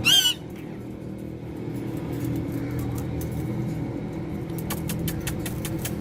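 A pet parrot gives a short, loud, wavering squawk right at the start. A steady low hum follows, with a quick run of sharp clicks near the end.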